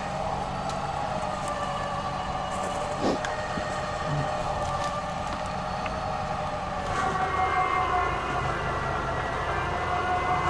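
Recovery rig's winch reeling in its line under load, with the engine running: a steady whine over a low hum that gets louder and slightly higher about 7 seconds in, with one sharp click about 3 seconds in.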